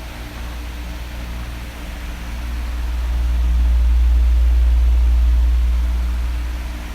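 Electric fan running with a steady hiss of air and a faint motor hum. About two seconds in, a low rush of air on the microphone swells, peaks, and fades again near the end as the oscillating fan's head sweeps past.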